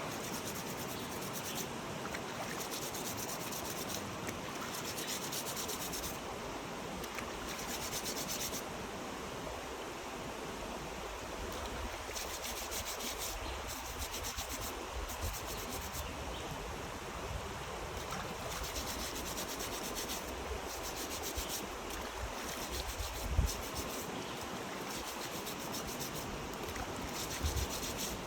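Rough scraping and rubbing in spells of a second or two over a steady hiss, with two short dull thumps near the end.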